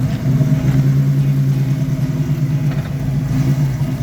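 Car engine idling steadily with a low, even note.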